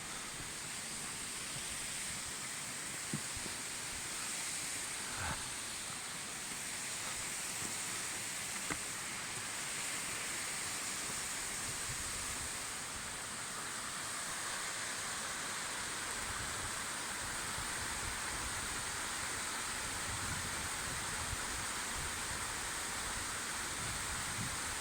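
Steady rushing of a mountain stream, with a few faint clicks in the first several seconds.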